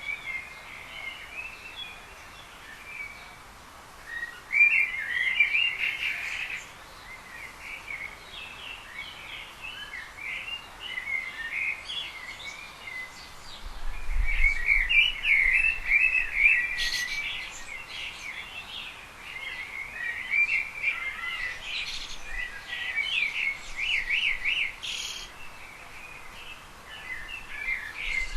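Small birds chirping and twittering in a busy, continuous chatter of quick high chirps, busiest a few seconds in and again about halfway through.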